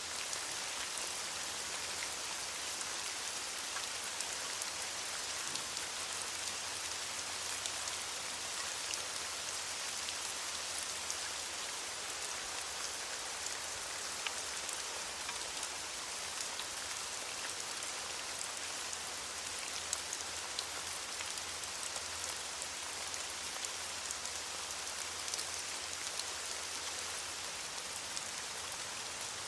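Steady rain falling on leaves, a constant hiss with many small drop patters.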